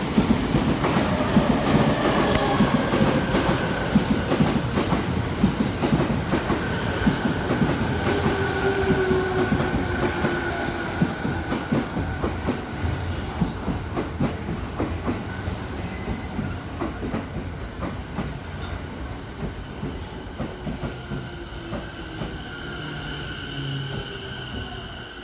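A JR East E217 series electric train pulling in and braking. Its wheels clack over the rail joints while a whine slowly falls in pitch as it slows. The sound grows gradually quieter, and a thin high steady tone comes in near the end as it nears a stop.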